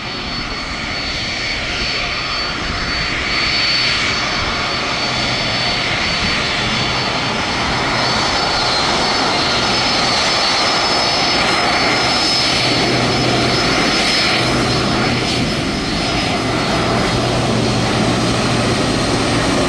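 Jet airliner engines running steadily, a continuous rushing noise with a thin high whine, growing louder over the first few seconds and then holding.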